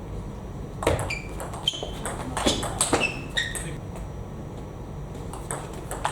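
Table tennis rally: the ball clicks off the bats and the table in quick succession for about two and a half seconds, then a short lull, then a few more hits near the end.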